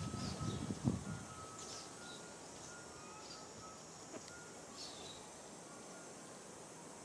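Outdoor ambience with small birds chirping now and then and a faint, repeated high note, over a low rumble that ends with a thump about a second in.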